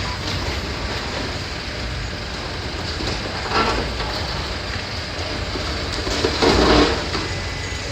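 Demolition excavator running steadily while it tears at the building, with rubble crunching and crashing down about three and a half seconds in and again, louder, near the end.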